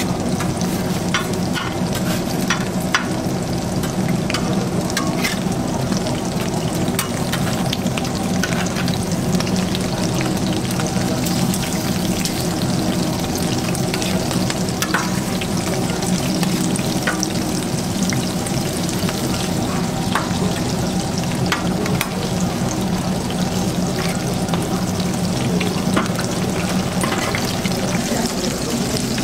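Battered vegetables and fritters frying in oil on a flat steel griddle: a steady sizzle with many small pops and crackles, over a steady low hum.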